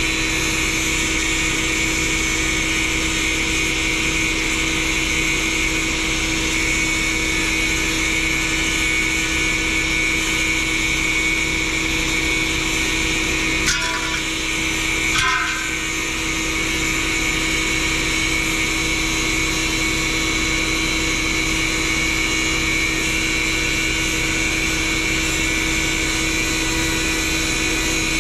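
A machine running steadily, a constant hum with a fixed high whine, with two short clicks about halfway through.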